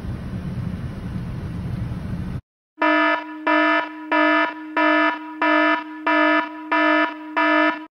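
Low car-cabin rumble. After a sudden cut, a buzzy electronic warning beep pulses seven times, about one and a half beeps a second, then stops abruptly.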